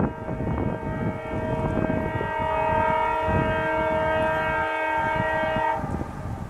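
Diesel locomotive air horn sounding one long steady blast, several tones at once, over the rumble of a passing train; the horn cuts off near the end.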